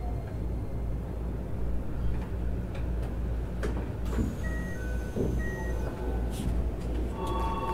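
Interior of a Keikyu New 1000 series train standing at a station: a steady low hum from the train's equipment with scattered clicks, and a few short high electronic beeps in the middle. Near the end a steady high two-note electronic tone starts and holds.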